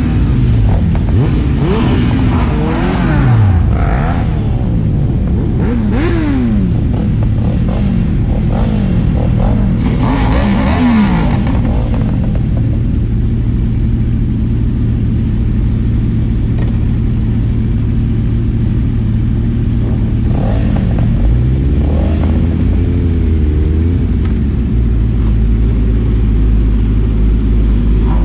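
Several motorcycle engines revving up and down over a steady engine and road drone, with many rising and falling revs in the first half and another run of revving about twenty-one seconds in.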